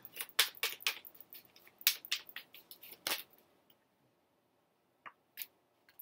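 Tarot cards shuffled by hand: a quick run of sharp card snaps and slaps for about three seconds, then quiet apart from two single clicks near the end.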